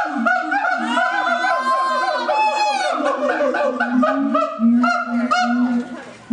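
A primate calling: a fast series of short, honking notes, about three or four a second, with a longer call that rises and falls about two seconds in. The calls fade away near the end.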